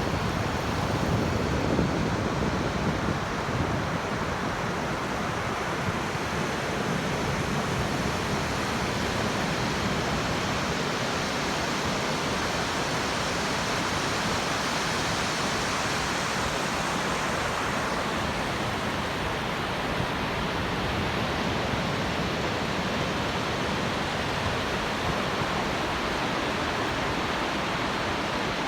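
Pacific Ocean surf: waves breaking and washing onto the beach in a continuous, steady roar of white water, swelling a little about two seconds in and again around the middle.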